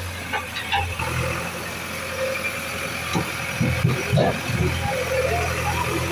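Vehicle engine idling with a steady low hum, with a few short louder sounds about three to four seconds in.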